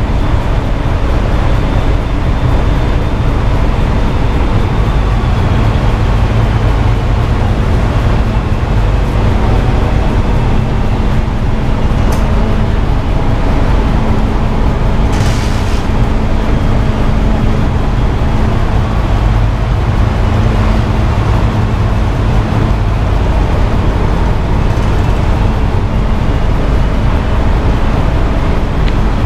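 Steady motor-vehicle engine and road noise while riding through city traffic, with a brief high hiss about halfway through.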